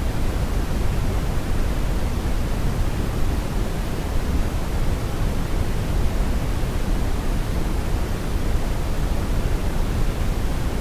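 Steady brown noise: an even, unchanging hiss heaviest in the low end, like a deep rumble without pitch.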